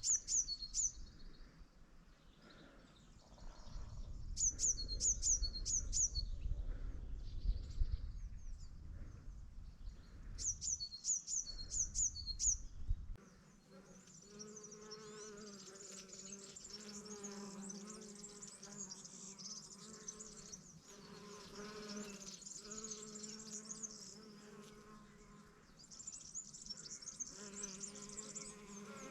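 Small birds singing short, quick runs of high repeated notes, over a low rumble like wind on the microphone. About halfway through the birdsong and rumble stop, and a steady buzzing hum like a flying insect takes over, carrying on with small swells.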